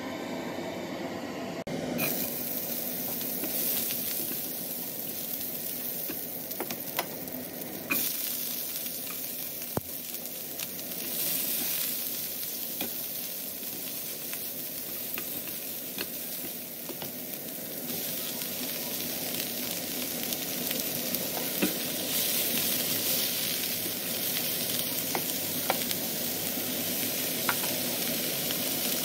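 Garland chrysanthemum (crown daisy) greens sizzling in hot oil in a nonstick wok as they are stir-fried with a silicone spatula, with scattered light clicks of the spatula on the pan. The sizzle starts about two seconds in.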